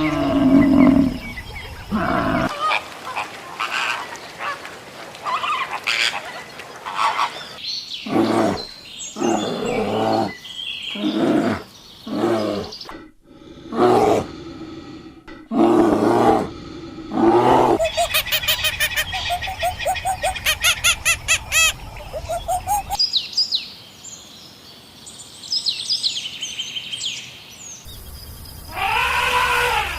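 A string of different animal calls, one clip after another with sudden cuts between them: roar-like calls, a rapid run of repeated pulsing calls, high chirps, and bleating calls starting near the end.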